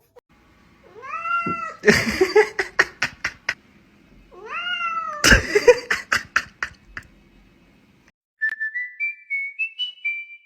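A cat meows, then a loud crash and clattering follow; the same meow-then-crash happens again a few seconds later. Near the end comes a short run of whistled notes stepping upward.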